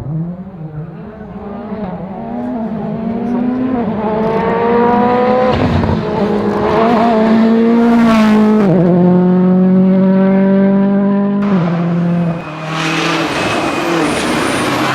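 World Rally Car engine accelerating hard, its pitch climbing through each gear and dropping sharply at each upshift, four shifts in quick succession, growing louder as the car comes closer.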